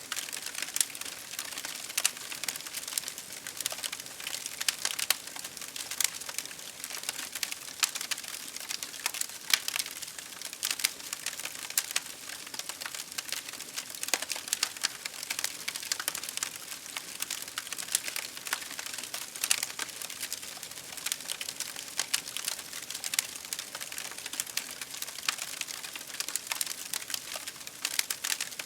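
Campfire crackling: many irregular sharp pops and snaps over a steady hiss.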